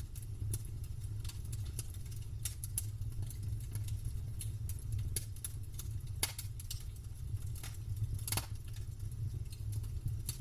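Campfire crackling: irregular sharp pops and snaps of burning wood, a louder pop about six seconds in and another near eight and a half seconds, over a steady low rumble.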